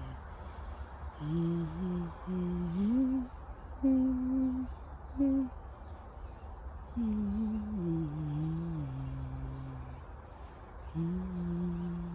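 A person humming a slow, wordless tune in long held notes that step up and down in pitch, with short pauses between phrases. A high, thin bird chirp repeats about twice a second behind it.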